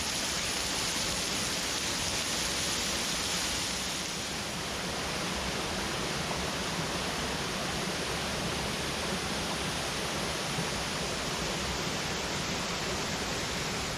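Steady rush of falling water from a small mountain stream's waterfall and cascades. The hiss eases a little about four seconds in.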